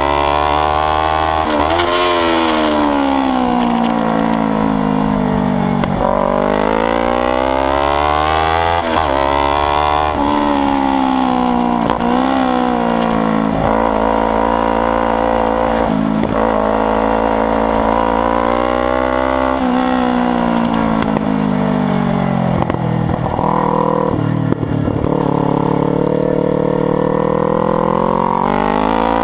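Kawasaki Ninja 300's parallel-twin engine running loud through a free-flowing exhaust, its revs climbing and falling again and again, with sudden drops every few seconds as it shifts gear and brakes.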